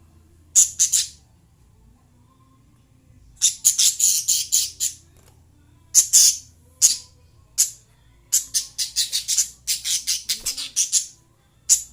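Lovebirds chirping: short, shrill, high-pitched chirps, a few at a time near the start, then rapid runs of many chirps with single ones between them.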